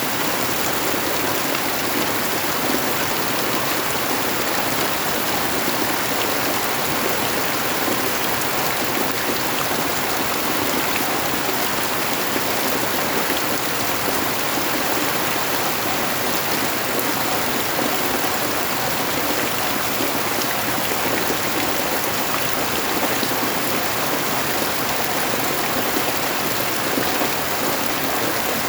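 Steady rain falling, an even unbroken hiss of many drops with no lulls or gusts.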